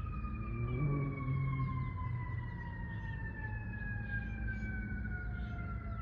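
A siren wailing, its pitch falling slowly and steadily, over a low rumble.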